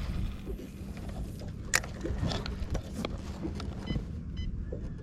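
Handling noise aboard a fishing boat: scattered clicks and knocks, the sharpest just under two seconds in, over a steady low hum and rumble.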